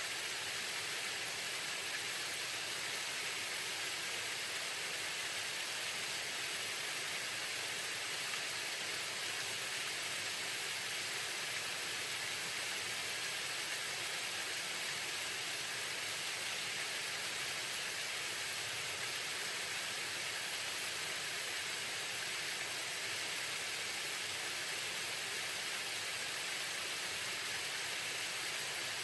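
Waterfall: falling water rushing in a steady, unbroken hiss that stays even throughout.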